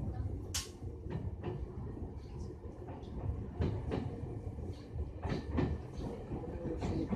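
Toyohashi Railway Atsumi Line electric train running, heard from inside the carriage: a steady low rumble with sharp wheel clicks over the rails here and there, the loudest about half a second in.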